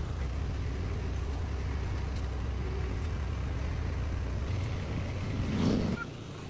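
Car engine running with a steady low rumble. A louder swell comes about five and a half seconds in, after which the rumble briefly drops away near the end.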